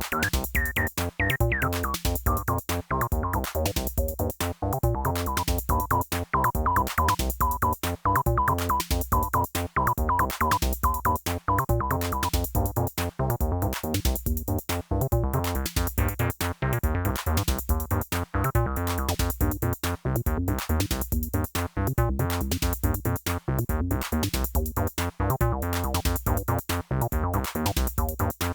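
Sequenced acid bass lines from a Behringer TD-3-MO and TD-3, TB-303-style monosynths with a squelchy resonant filter, over a steady Behringer RD-8 drum machine beat. The filter resonance holds around one pitch for several seconds, then opens and closes.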